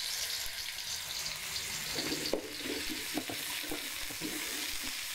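Shallot, garlic and candlenut spice paste and chicken cubes sizzling in hot oil in a steel wok. From about two seconds in, a metal wok spatula scrapes and clinks against the pan as the paste is stirred in.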